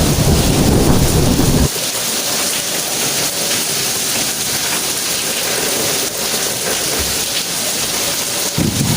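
Steady rain hissing, with a deep rumble of thunder underneath that cuts off abruptly about two seconds in; a short low rumble returns near the end.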